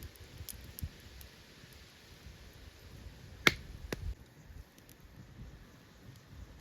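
Two sharp clicks about half a second apart a little past the middle, the first the louder, with a few faint ticks around them.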